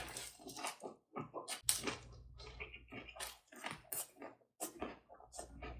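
Close-miked chewing of a mouthful of boiled pork with garlic: irregular wet smacks and clicks of the mouth, several a second.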